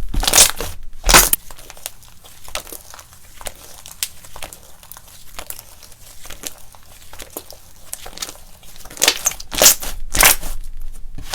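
Slime being squeezed and kneaded by hand, with crackling and popping. Loud squishes in the first second and again near the end, with softer scattered crackles between.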